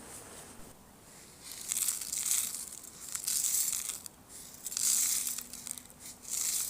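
Crinkling, rustling handling noise in four bursts of about a second each, with short pauses between.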